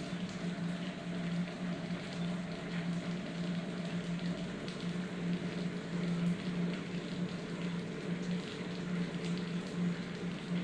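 Rain falling steadily, a dense patter with scattered sharper drop ticks, over a constant low hum.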